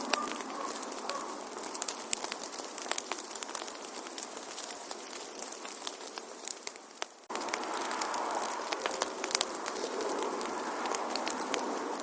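Wood fire crackling, with frequent sharp pops and snaps over a steady hiss of flame. About seven seconds in the sound sags and cuts off for an instant, then resumes at the same level.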